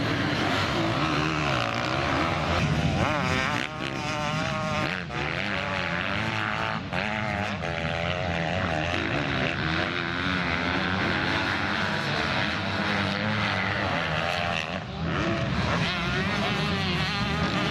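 Several motocross motorcycle engines racing together, revving up and down so that their pitch keeps rising and falling.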